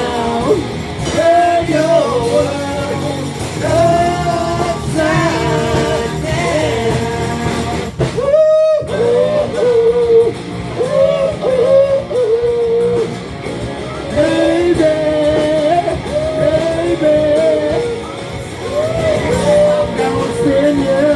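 A rock-and-roll band playing, with a voice singing over guitar. About eight seconds in, the band drops out for a moment under one held sung note.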